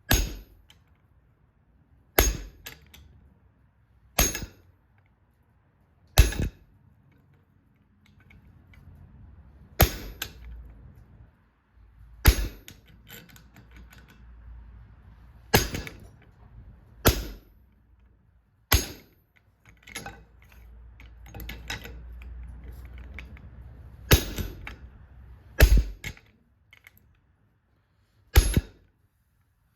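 Hammer blows on hot steel bar stock on an anvil: about a dozen sharp, briefly ringing strikes at uneven intervals of roughly two seconds. A low steady rumble runs under some stretches between blows.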